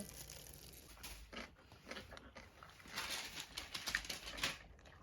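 Faint, irregular clicks and light rustling, most crowded a little past the middle.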